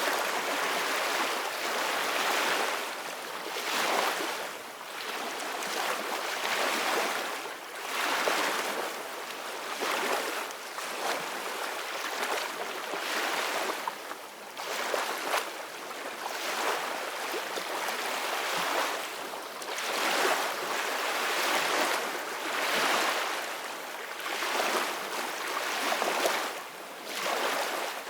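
Ocean waves washing onto a beach: a continuous surf hiss that swells and falls back every couple of seconds.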